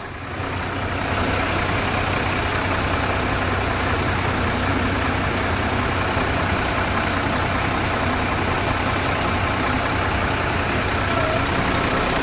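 Mercedes-Benz Atego 2426 truck's diesel engine idling steadily.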